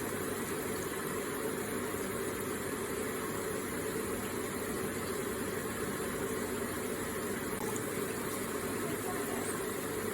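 Electric water feature running: a steady, even flow of trickling, splashing water.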